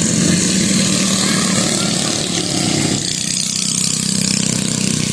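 Several racing mini bikes' small engines running hard together as they lap the track, a steady loud drone that shifts in pitch about three seconds in as the bikes move around.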